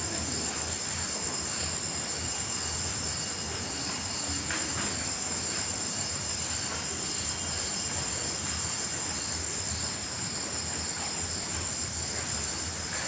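A night chorus of crickets and other insects: a steady, continuous high-pitched trill over a constant background hiss, unchanging throughout.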